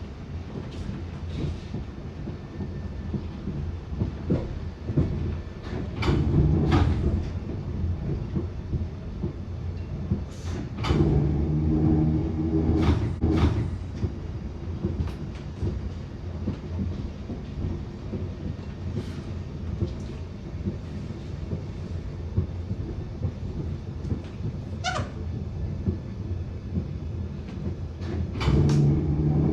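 Bakerloo line 1972 Stock tube train running, with sharp pops every few seconds, often in pairs, over the low rumble of the train.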